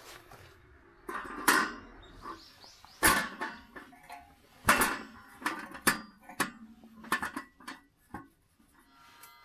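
A series of irregular knocks and clatters, about a dozen, the loudest three spread through the first half, as of objects being set down and handled.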